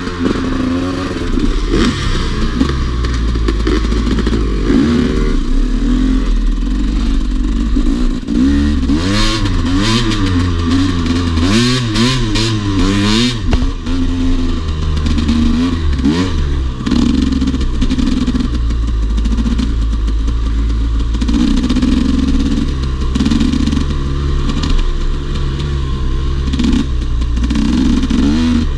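Dirt bike engine running under way, revs rising and falling over and over through the middle as the throttle is worked, then running more evenly with pulsing changes in the engine note, with some clatter mixed in.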